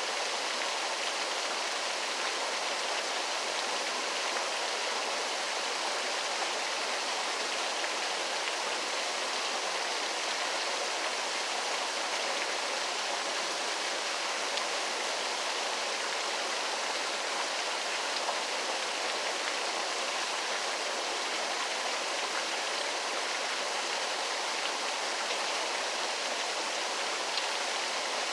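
Waterfall: water falling and splashing in a steady, unbroken rush, bright and hissy with little deep rumble.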